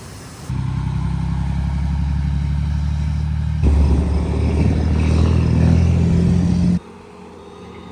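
Farm machinery engine running steadily, heard in short clips cut one after another: it comes in about half a second in, gets louder a little past the middle, and drops to a quieter engine-and-noise background near the end.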